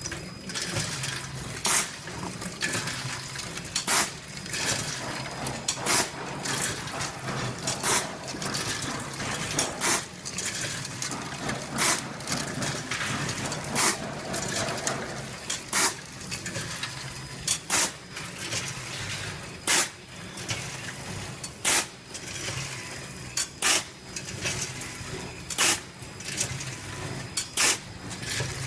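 Automatic popcorn packing machine running, with a sharp clack about every two seconds over a steady low hum and lighter rattling between the clacks.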